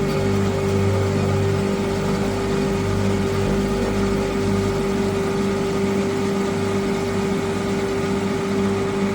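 Metal lathe running steadily while machining spacers, a constant motor hum with a lower throb that comes and goes every second or so.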